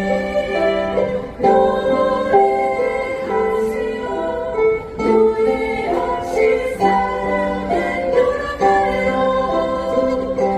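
Ukulele ensemble strumming with a group of voices singing along.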